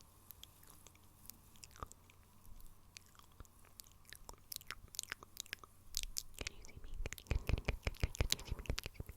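Fingernails tapping, clicking and scratching on product packaging: scattered clicks at first, then a quick, dense run of taps and crackles with soft thuds over the last few seconds.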